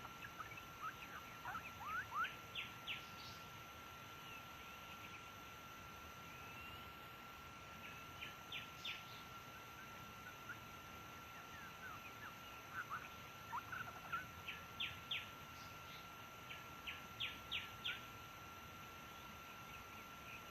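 White-rumped shama singing: four phrases of quick, short whistled notes a few seconds apart. A steady thin high tone runs underneath throughout.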